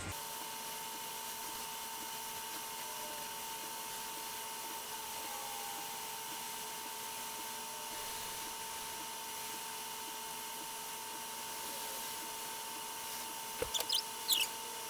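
Hot air rework station blowing through a small nozzle at low airflow: a steady hiss with a thin, steady whine from its blower, heating solder paste in a stencil to form the balls for reballing a chip. A few short clicks near the end.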